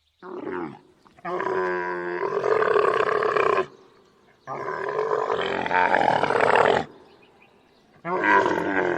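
Camel calling: a short call, then two long calls of about two seconds each, and another beginning near the end.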